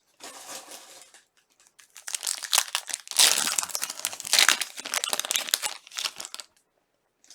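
Plastic wrapper of a Panini trading-card pack crinkling as it is handled and opened: a brief crinkle, then a few seconds of dense crinkling that stops shortly before the end.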